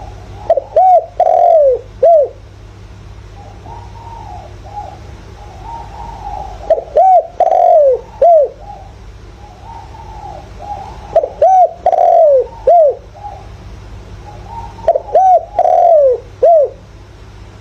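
Spotted dove cooing: four phrases at about four-second intervals, each a quick run of short rising-and-falling coos around one longer note. Fainter cooing fills the gaps between phrases over a steady low hum.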